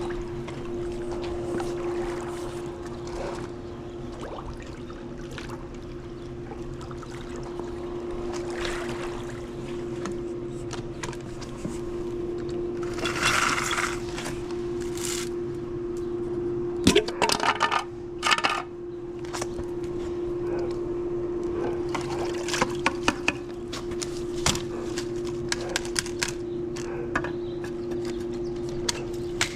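Pool leaf skimmer net being worked through the water, with water splashing and pouring off the net, and sharp knocks and clicks from the pole and net, over a steady hum.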